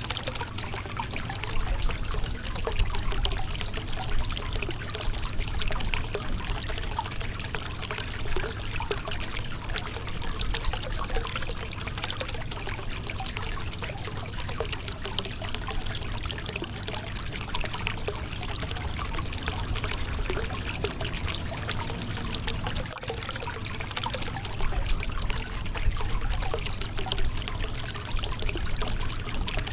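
Shallow river water flowing and splashing over a rocky bed: a steady, even rush with a low rumble underneath.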